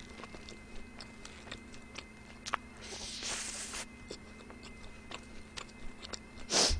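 Close-miked chewing of a burger, with many small wet mouth clicks. The foil-paper burger wrapper rustles for a moment a little past halfway, and a short loud rustle comes near the end.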